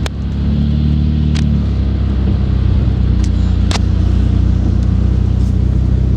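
Car engine running steadily, a low hum, with a few sharp clicks over it.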